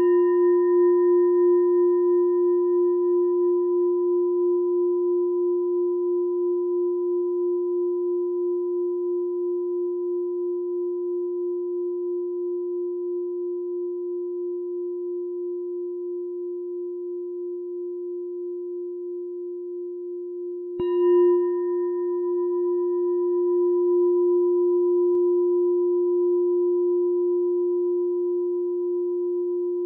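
A meditation bell ringing with a low, steady tone that wavers slowly as it fades, carried over from a strike just before. It is struck again about 21 seconds in and rings on.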